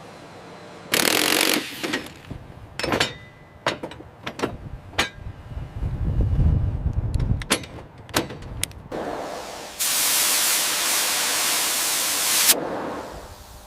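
Metalworking tool sounds: a short hiss about a second in, then a run of sharp metal knocks and clanks with a low rumble. Near the end comes a steady, loud spraying hiss of about two and a half seconds that cuts off suddenly.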